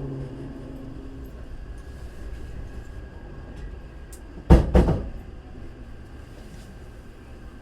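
Hankyu 3300 series electric train running slowly. Its motor hum dies away in the first second, then two loud clunks follow about a third of a second apart, about four and a half seconds in, as wheels strike a rail joint or points.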